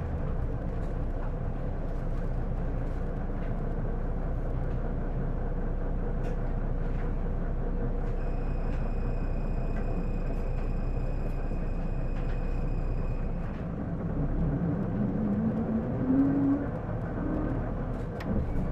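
Interior running noise of an Isuzu Erga PJ-LV234L1 city bus: the engine runs steadily while a high beep sounds for about five seconds. Then, about fourteen seconds in, the bus accelerates and a whine rises in pitch in steps. This is the abnormal noise that the owner likens to an automatic transmission and suspects is transmission-related.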